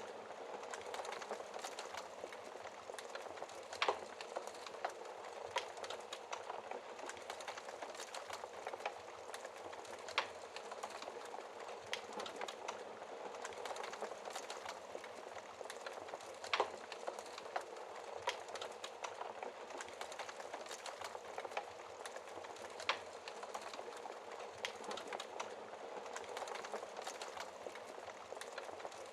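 Wood fire burning behind a glass fireplace door: a steady hiss with small crackles throughout, and a sharper pop about every six seconds.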